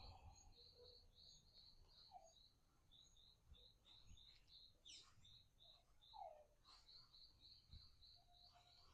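Faint bird chirping: a long run of short, high, evenly spaced chirps, a few a second, that pauses briefly midway and then resumes.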